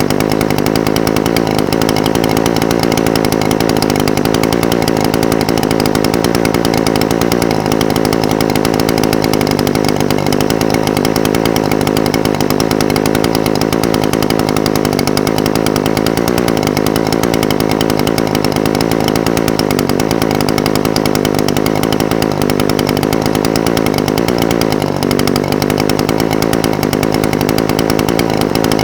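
Echo SRM-420TES brush cutter's two-stroke engine idling steadily, its pitch wavering slightly a few times.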